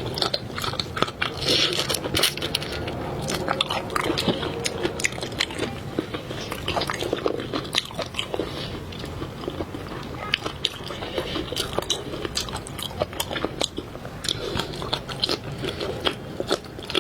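Close-miked chewing and biting of seafood, with many quick, irregular crunches, crackles and wet smacks.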